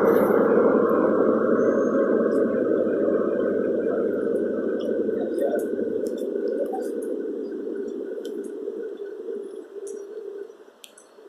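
A departing InterCity 125 High Speed Train, its rear Class 43 power car passing and pulling away, gives a steady rumble that fades out over about ten seconds.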